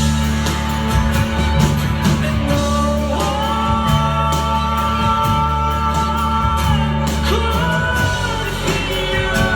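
Live band music with a steady drum beat over a sustained bass line and long held notes, sung without clear words, from about three seconds in.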